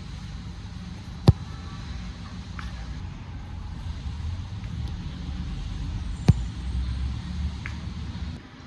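A football struck twice, two sharp thuds about five seconds apart, over a steady low rumble.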